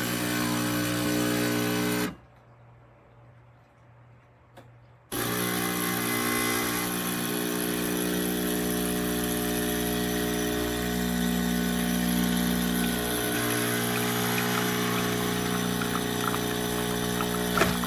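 CHULUX Slim espresso machine's 20-bar pump running: a burst of about two seconds, a pause of about three seconds, then steady running.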